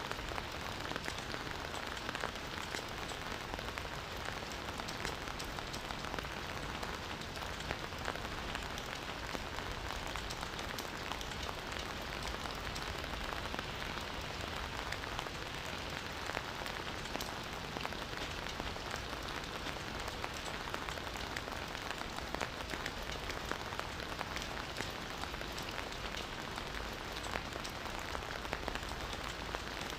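Steady rain falling, a constant hiss with many fine, close drop patters.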